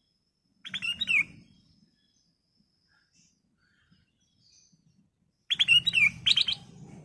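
Black-crested bulbul (kutilang emas) singing two short, bright song phrases of quick sweeping whistles, one about half a second in and a longer one near the end, with a pause between.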